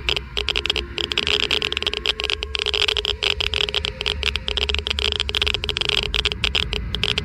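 Geiger–Müller counter clicking rapidly and irregularly, many clicks a second, at a high count rate, over a steady low hum.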